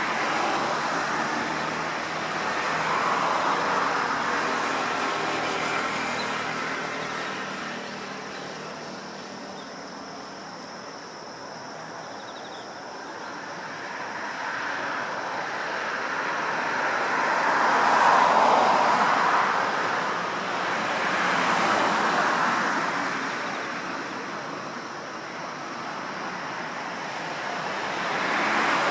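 Road traffic: vehicles passing one after another, each a rushing noise that swells and fades over several seconds. The loudest pass comes about eighteen seconds in.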